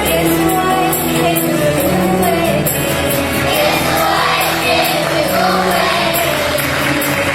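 Choir of young voices singing an Arabic Christian hymn over instrumental backing with tambourine-like jingles. From about halfway, clapping from the audience starts to rise under the song.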